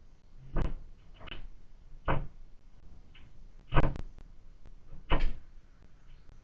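A tit pecking at lard in a window-mounted feeder: about five sharp, irregular knocks with fainter taps between.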